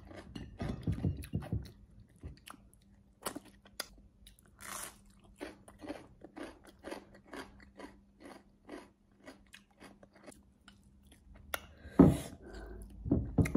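Close-miked chewing of crunchy raw salad vegetables, a run of crisp crunches about three a second. Near the end, a loud knock and rustle as hands work food on a plate.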